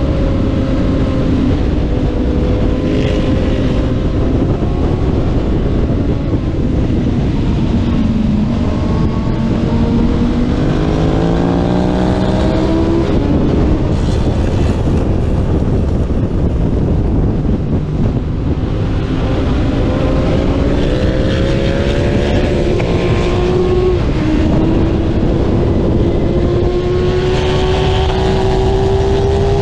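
Racing motorcycle engine heard from on board under heavy wind noise. The engine note falls at first, then climbs hard from about eight seconds in, is cut by a quick shift, falls again, and climbs once more from about eighteen seconds, with another shift near twenty-four seconds before it rises to the end.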